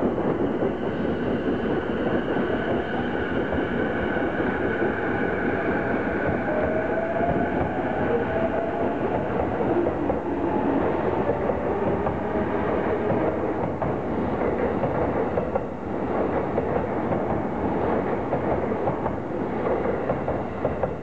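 Joban Line local electric commuter train pulling out alongside at close range. Its motor whine rises in pitch as it gathers speed, over steady wheel rumble and clatter from the rail joints.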